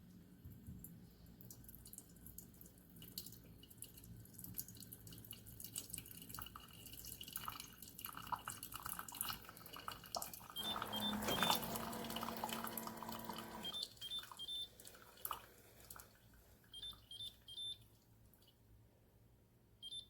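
Instant Pot single-serve K-cup coffee maker running a brew with water gurgling, spitting and dripping, its pump humming loudly for about three seconds in the middle, and sets of three short beeps later on. The pump is not pushing water through properly, which the owner thinks may mean the pump has failed.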